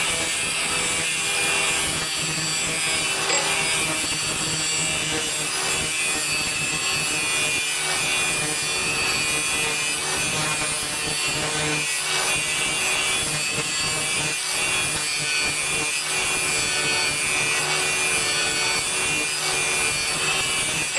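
Power grinder grinding the cutting edge of a steel SCAG mower blade, a steady loud grinding with a constant whine.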